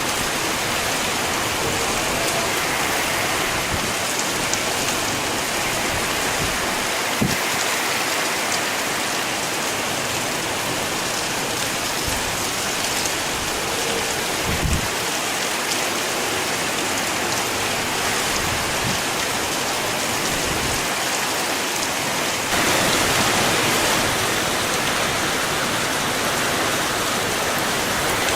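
Typhoon rain pouring steadily in a dense hiss, with a few dull knocks. A louder surge comes about two-thirds of the way in and lasts a second or two.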